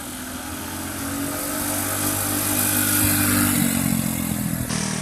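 1960s mini bike's small engine running at full throttle on a drag run. It grows louder over the first three seconds as the bike accelerates, then its pitch shifts about three and a half seconds in.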